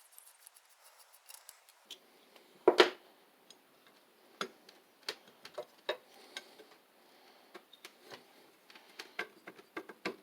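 Light metallic clicks and clinks of tools and parts being handled as the kick-start pedal is taken off a Briggs & Stratton WMB small engine, with one louder clank about three seconds in.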